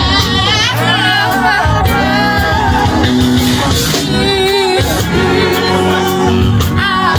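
Live gospel group performance: a sung voice with heavy vibrato over a band with steady bass and a regular drum beat.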